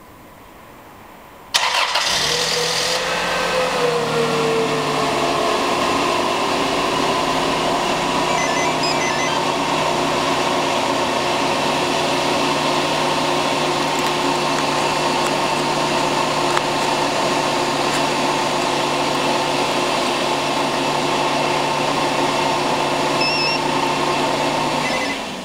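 Car engine cranking and catching about a second and a half in. Its speed drops from a fast idle over the next couple of seconds, then it idles steadily until the sound fades near the end.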